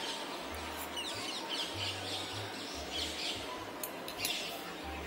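Small birds chirping repeatedly in the background, short quick high notes, over a steady low hiss.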